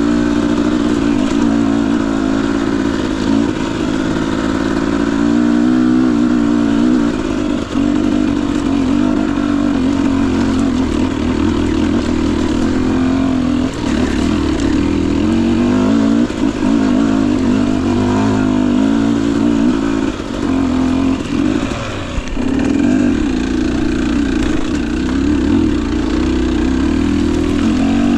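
Husqvarna TE250i's single-cylinder two-stroke fuel-injected (TPI) engine running at low to moderate revs while ridden slowly on the trail. The revs rise and fall with the throttle, with a few brief drops in loudness.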